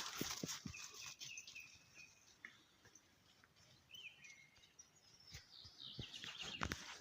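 Songbirds singing faintly in spring, with whistled notes, a falling glide and a short descending run of notes. A few low thumps come just after the start and again near the end.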